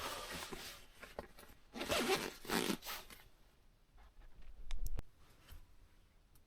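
A zipper pulled in two rasping strokes, the second longer and louder, followed by a few sharp clicks about five seconds in.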